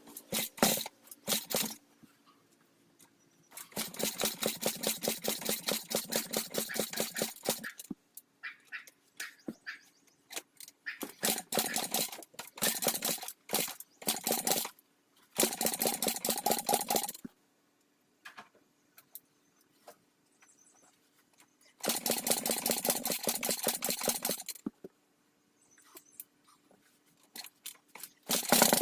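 Dirt bike's electric starter cranking the engine over in four bursts of a few seconds each, a fast even chatter, without the engine catching and running.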